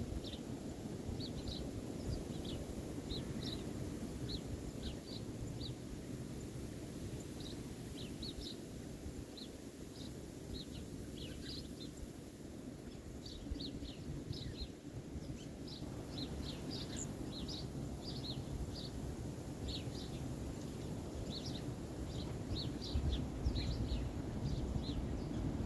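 Small birds chirping: many short, high calls scattered throughout, over a steady low background rumble.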